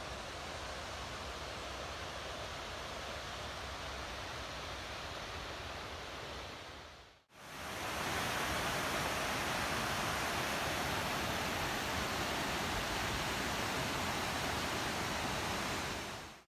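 Steady rush of a waterfall's falling water. It dips away briefly about seven seconds in and comes back louder.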